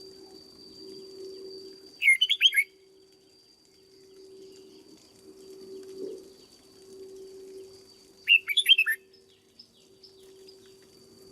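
Red-whiskered bulbul singing two short, quick warbled phrases, about two seconds in and again about eight seconds in, over a steady low hum.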